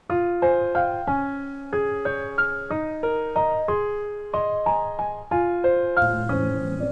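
Background piano music: a gentle melody of single struck notes, each fading away, joined by a fuller, lower accompaniment near the end.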